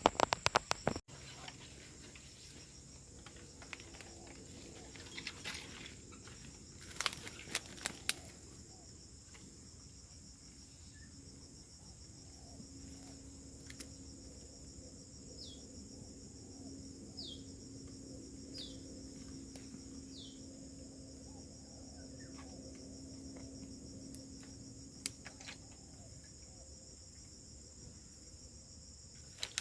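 Steady high-pitched chirring of insects. A cluster of clicks comes about seven seconds in, and a few short falling chirps come in the middle.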